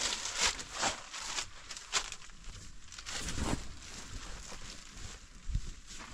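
Irregular rustling and scuffing noises, a handful of short crackly bursts a second or so apart.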